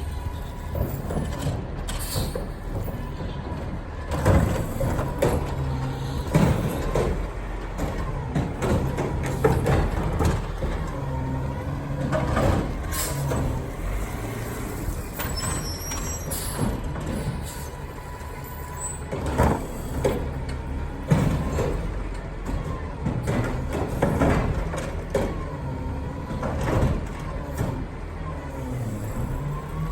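Recycling garbage truck running, with air-brake hisses and a string of irregular clanks and clatters over the steady engine hum.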